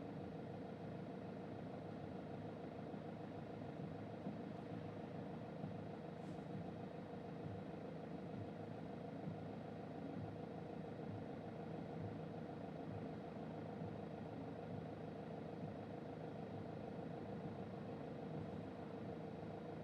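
Toyota Auris 1.4 D-4D four-cylinder turbodiesel engine running steadily, with an even drone and no change in revs, heard from inside the car.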